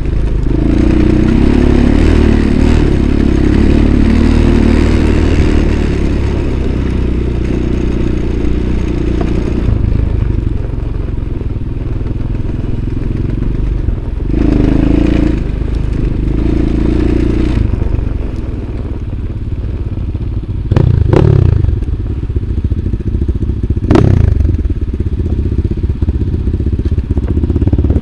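Off-road motorcycle engine running under way, its revs rising and falling as it rides. Two short, sharp rev blips come near the end.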